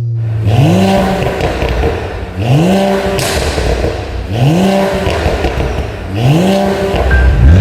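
Mercedes-AMG CLE 53's turbocharged inline-six through an aftermarket titanium exhaust, revving repeatedly. The pitch rises about every two seconds, levels off, then drops away.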